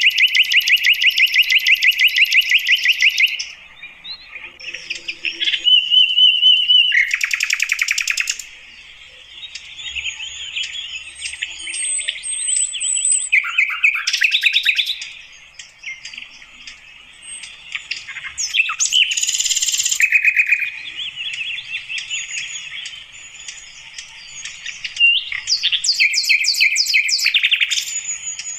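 Sikatan Londo (a flycatcher) singing: loud phrases of fast, rapidly repeated notes, each lasting a few seconds, broken by softer chattering and thin high notes.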